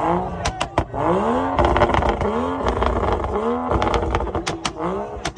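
Car engine revved over and over, its pitch rising and falling about once a second, with sharp cracks in between that come thicker near the end.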